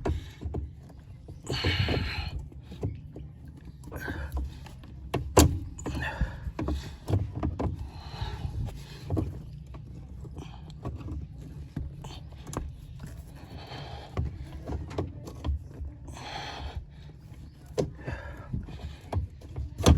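Hands working on a rusty clutch pedal: short hissing bursts among scattered knocks and clicks, with one sharper knock about five seconds in.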